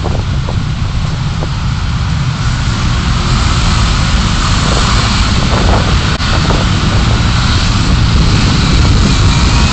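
Car driving, picked up by a dashcam: a steady low rumble of engine and road noise with tyre and wind hiss that grows a little louder partway through.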